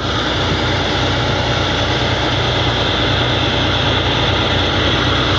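Heavy truck engine running steadily with a low, even drone and a constant hiss over it.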